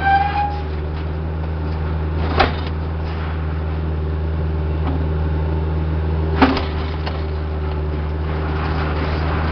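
Heavy equipment engine running steadily at constant speed, with two sharp knocks about four seconds apart.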